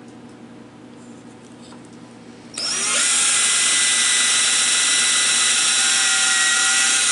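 An electric drill starts about two and a half seconds in, whines up to speed and then runs steadily at full speed.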